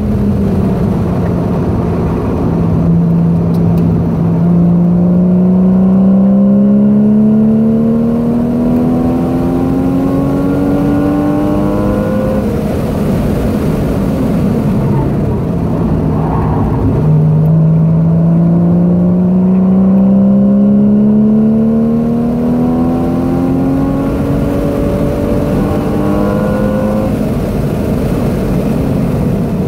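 Porsche 981 Boxster S flat-six engine heard from inside the cabin, pulling hard on track with its note rising steadily for about ten seconds, easing off around the middle, then dropping and climbing again in a second long pull, over constant road and wind noise.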